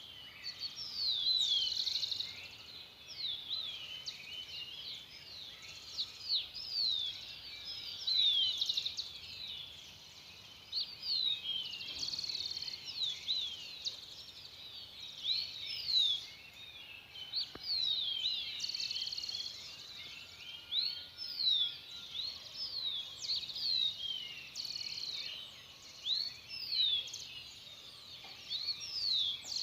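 Dawn chorus of several birds calling and singing at once: a steady stream of short, high notes that slide up and down and overlap one another.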